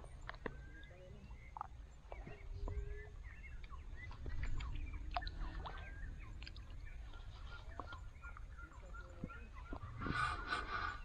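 Birds calling: short scattered chirps, then a louder, harsh call of several notes about ten seconds in, over a low steady rumble and faint clicks.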